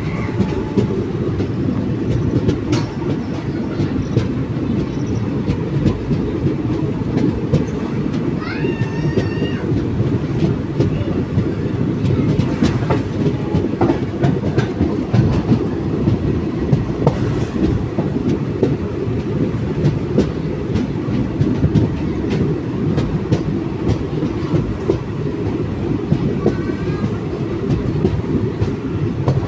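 Train running along the track: a steady low rumble of the coaches with the clickety-clack of wheels over rail joints.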